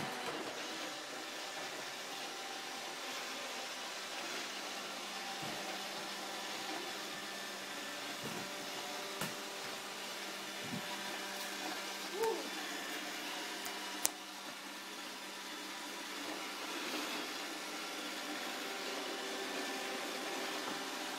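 iRobot Roomba 780 robot vacuum running with a steady whir, with a few faint knocks, a brief chirp about twelve seconds in and a sharp click about two seconds later.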